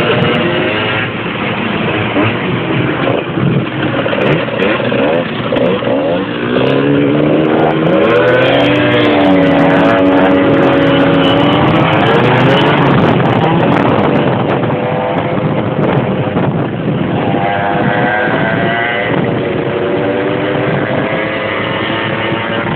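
Motorcycle engine running and revving. Its pitch climbs about eight seconds in, holds steady for a few seconds, then falls away, and it rises again later.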